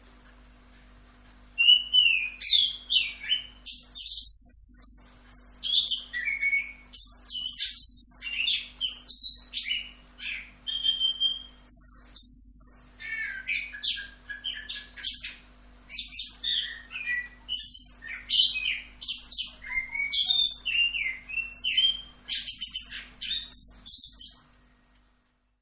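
Chestnut-capped thrush (anis kembang) singing a long, unbroken run of quick, varied high phrases. The song starts about a second and a half in and stops a little before the end.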